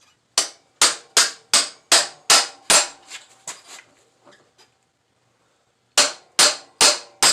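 Hammer striking metal: a quick run of about eight sharp blows, roughly two and a half a second, then a few lighter taps, a pause, and another fast run of blows near the end, with a faint metallic ring after them.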